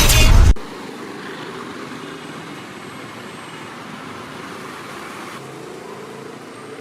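A loud intro sound cuts off sharply about half a second in, leaving steady outdoor street background noise like distant traffic.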